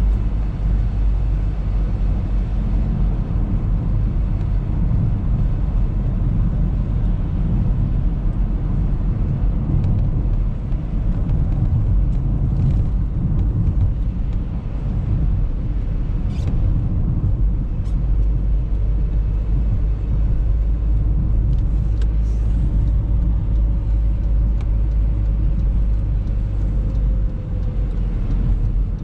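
Steady low rumble of an Audi A3 driving on the road, engine and tyre noise heard from inside the car, with a few faint clicks about halfway through.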